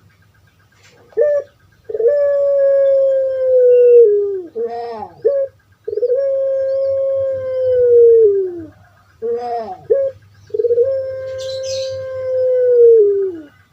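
Puter pelung dove (Streptopelia risoria) cooing: three long drawn-out coos, each held on one steady note for about two and a half seconds before dipping in pitch at the end, and each led in by a few short notes.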